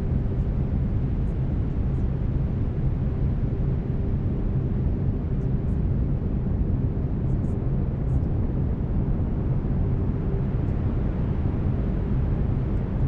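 Steady brown noise: an even, deep hiss weighted toward the low end, with faint steady low tones from binaural beats running beneath it.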